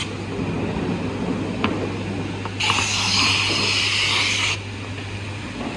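Woodmaster WM-2800-S2R4 heavy-duty boring and milling machine running with a steady motor hum. A single click comes about a second and a half in, then a hiss of pneumatic air release lasting about two seconds. The hum stops just before the end.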